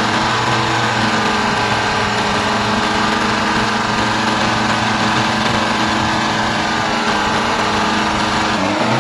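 World War II Chevrolet truck's straight-six engine running steadily at idle, freshly started after restoration.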